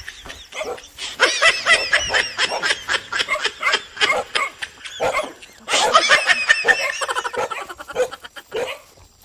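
Several dogs barking in a rapid, overlapping chorus of short, high-pitched yaps, breaking off briefly about five seconds in, then starting again and thinning out near the end.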